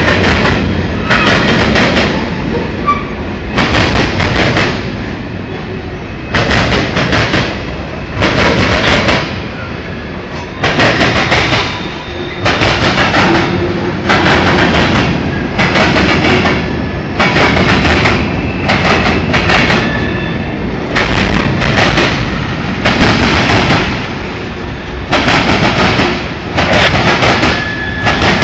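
Railroad cars rolling past close by: a rush of steel wheels on rail that swells and drops about every two seconds as each car's wheel sets go by, with faint high wheel squeal now and then.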